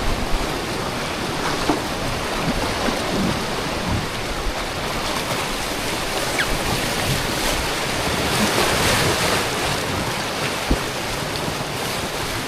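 Rushing river water, a steady noisy wash of rapids around tubes riding downstream, with a few short knocks, the sharpest about three-quarters of the way through.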